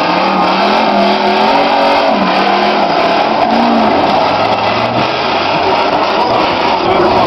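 Demolition derby car engines revving on the track, pitch rising and falling as they accelerate and let off.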